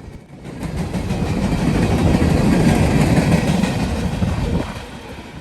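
Train rolling past on the tracks. The noise swells to a peak and then fades away about four and a half seconds in.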